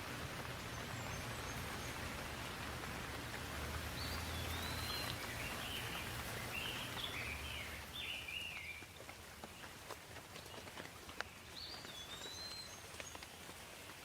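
Steady rain falling, with a few scattered drips. A bird gives a string of short chirping calls about four seconds in and calls once more near the end. The rain eases a little just past the middle.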